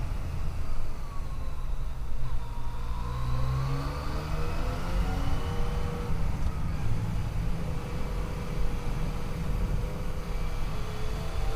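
Yamaha FJ-09's inline three-cylinder engine under acceleration, its pitch rising from about two seconds in to about five, then running steady, over heavy wind rush on the microphone.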